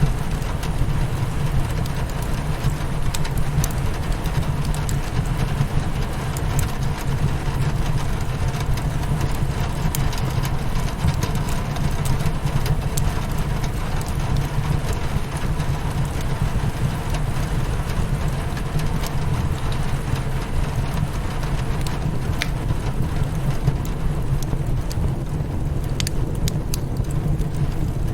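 Rain hitting a window mixed with a crackling fireplace: a steady low rushing with scattered small sharp clicks.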